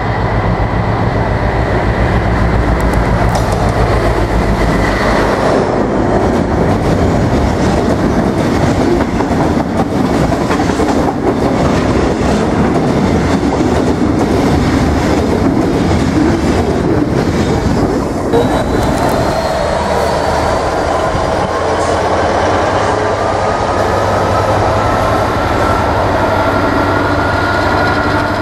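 A Class 60 diesel-electric freight locomotive goes by with its engine running, then its loaded freight wagons rumble and clatter past over the rail joints. About two-thirds of the way in, a second diesel locomotive, a Class 66, comes in with a whine that rises in pitch over its engine.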